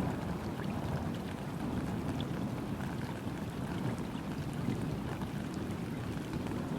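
Steady summer rain falling onto a river's surface: a dense patter of small drops over a low, even rush of water.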